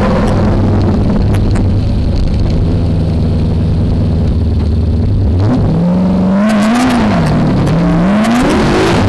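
V8 engine of a BMW E30 drift car heard from inside the car, running at low steady revs for about five seconds, then revving up hard, its pitch rising and falling repeatedly as the throttle is worked.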